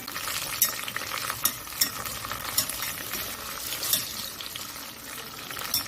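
Gambas (shrimp and garlic in olive oil) sizzling in a frying pan, a steady hiss with scattered sharp pops, as the food is stirred.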